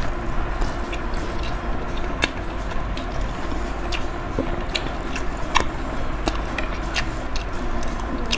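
Close-miked chewing of a fried mozzarella cheese corn dog, with frequent short sharp mouth clicks throughout.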